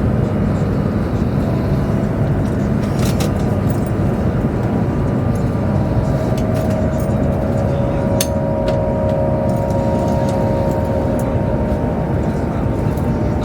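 Cabin noise of a Chinese high-speed bullet train running at speed: a steady low rumble and rush with a faint held whine over it, and a few light clicks.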